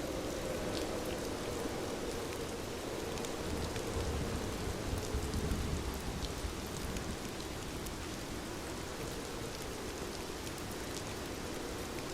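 Steady rain falling on a window, with scattered sharp drop ticks over an even hiss. A low rumble swells briefly about five seconds in.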